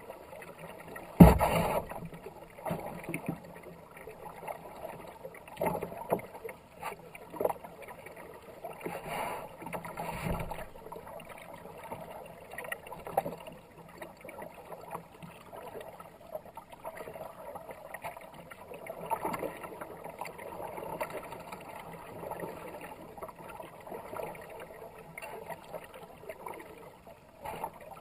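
Kayak paddling: paddle blades splashing through the water, with irregular hollow knocks against the hull, the loudest about a second in.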